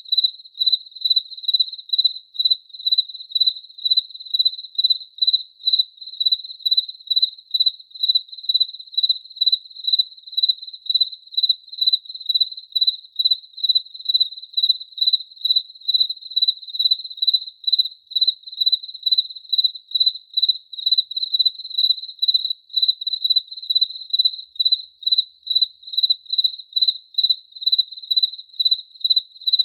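A cricket chirping in an even, unbroken rhythm, about two high, clear chirps a second.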